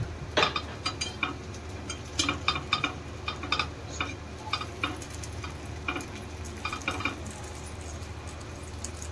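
Appe (rice-batter dumplings) frying in oil in an appe pan: a soft sizzle with irregular sharp crackles and light taps, thinning out after about seven seconds.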